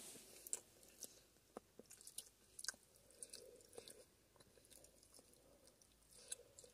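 Faint close-up chewing of a mouthful of steak pie with pastry: soft wet mouth clicks at uneven intervals.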